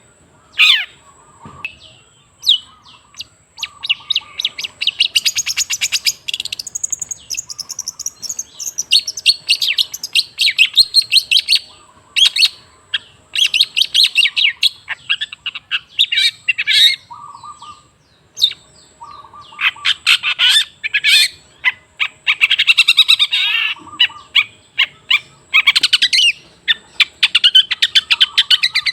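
Long-tailed shrike singing in fast runs of harsh, chattering notes mixed with squeaky calls, in bursts separated by short pauses.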